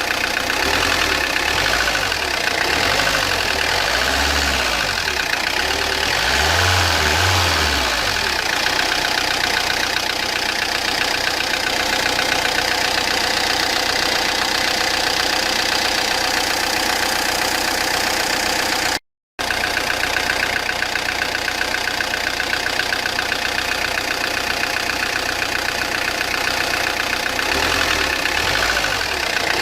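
Peugeot Partner 1.9 diesel engine running at idle with a strong mechanical knocking noise, which the mechanic puts down to the pistons having struck the valves, possibly with the timing set wrong.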